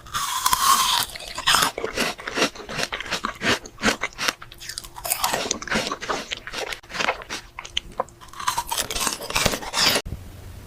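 Close-miked crunching of frozen fruit being bitten and chewed, with dense, irregular crackles and wet mouth sounds. It cuts off suddenly near the end, leaving a low hum.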